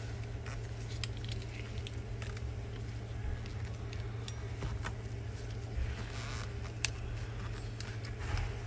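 Light clicks and taps of a car key fob being handled, with two brief rustles about six and eight seconds in, over a steady low hum.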